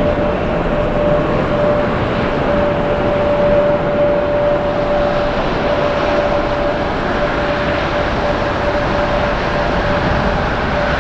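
Jet airliner engines running: a steady, loud rushing noise with one held tone through it.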